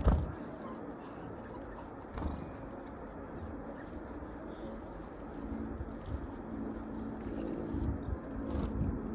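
Birds feeding on a seed-and-beetle mix, with pecking and scuffling, a sharp knock at the start and another about two seconds in.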